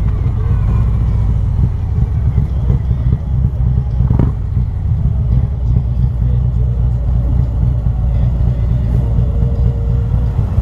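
Harley-Davidson Road Glide's Milwaukee-Eight V-twin running through aftermarket 4-inch slip-on mufflers, a steady low rumble at low speed.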